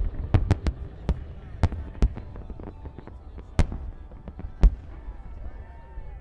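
Fireworks shells bursting over a low rumble: a quick run of sharp bangs in the first two seconds, then two more spaced about a second apart, the last the loudest.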